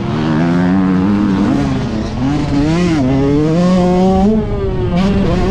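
Yamaha YZ125 two-stroke single-cylinder motocross engine under way, heard from the rider's helmet. Its pitch climbs and drops several times as the throttle is opened and closed and the gears change.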